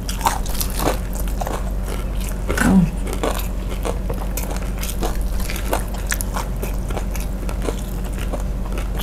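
Crispy fried chicken being bitten and chewed close to clip-on microphones: a steady run of crunchy, crackly chewing clicks. A brief voiced murmur comes about two and a half seconds in, over a steady low electrical hum.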